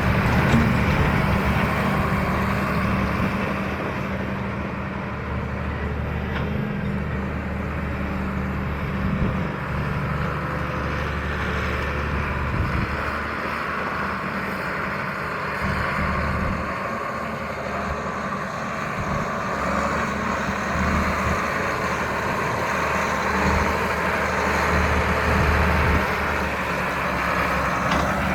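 John Deere 8630 tractor's six-cylinder turbocharged diesel engine running steadily with a low hum.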